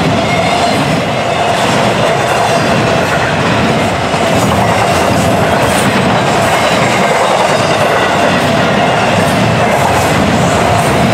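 Double-stack intermodal freight train's well cars rolling past close by: a steady, loud rumble of wheels on rail with scattered clicks.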